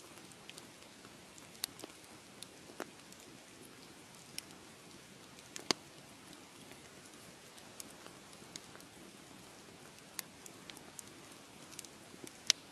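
Wood fire crackling: a soft steady hiss of flames with irregular sharp pops and snaps, two louder pops about six seconds in and near the end.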